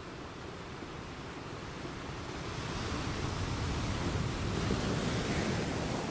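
Ocean waves crashing on a rocky beach: a rush of surf that swells over several seconds and peaks near the end.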